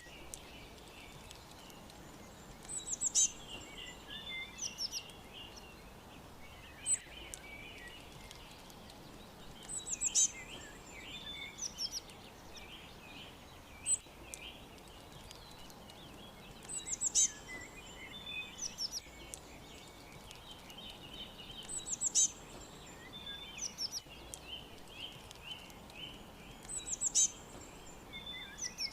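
Songbirds chirping: one bird repeats a short, high song phrase about every five seconds, with softer twittering in between, over a steady faint background hiss.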